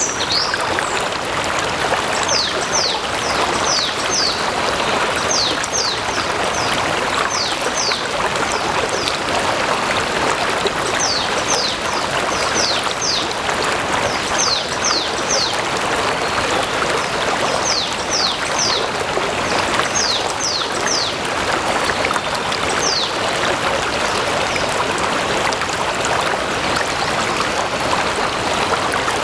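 Stream water flowing and splashing steadily. Over it a bird repeats short, high chirps that fall in pitch, in runs of two to four, and stops about three quarters of the way through.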